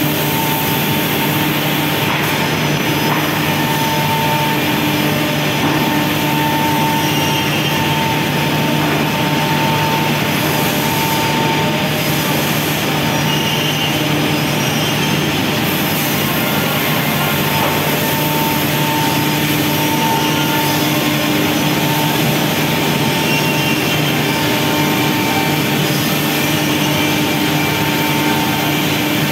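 Steady running of CNC factory machinery: a continuous whir with a low hum and a few higher steady tones that come and go.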